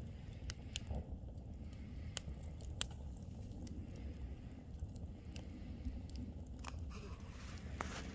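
Wood bonfire burning, crackling with scattered sharp pops over a low steady rumble. A rustling noise starts near the end.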